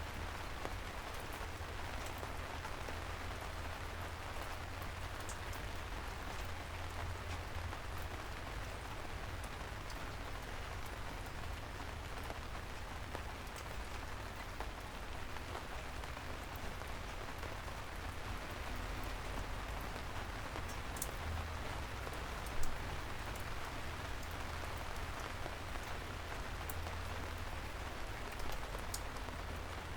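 Steady soft rain falling on city streets, with a low rumble underneath and scattered drip ticks. One louder single tap comes about two-thirds of the way through.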